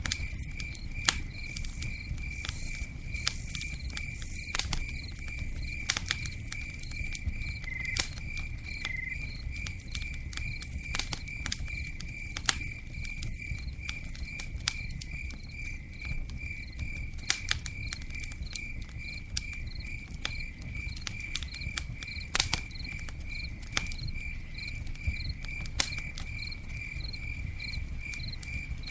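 Campfire crackling, with scattered sharp pops over a low rumble, and a cricket chirping in a steady, even rhythm.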